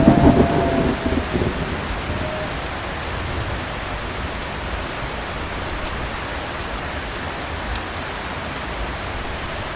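Steady heavy rain, with the tail of a thunder rumble dying away over the first second or so.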